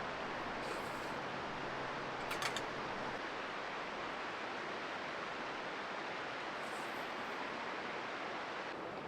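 Steady hiss of falling rain, with a short cluster of sharp ticks about two and a half seconds in.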